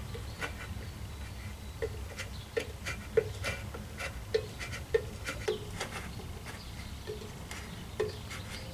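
A series of light clicks and taps, roughly two a second and unevenly spaced, over a low steady hum.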